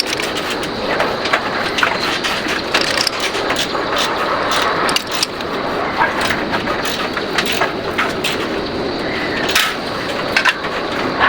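Nail gun firing nails into C-molding trim: a run of sharp, irregularly spaced snaps over a steady background noise.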